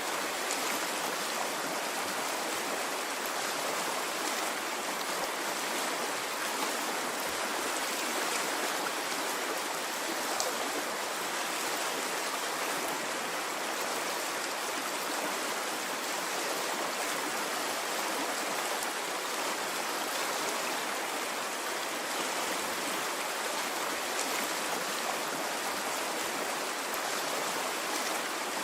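Water in a stream running steadily over rocks, a constant rushing and gurgling without pause.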